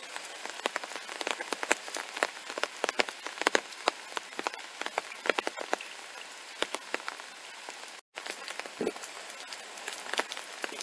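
Steady rain pattering on wet concrete paving and into a puddle: a dense, irregular scatter of sharp drop ticks over an even hiss. The sound cuts out for a moment about eight seconds in, and near the end a couple of footsteps land on the wet paving.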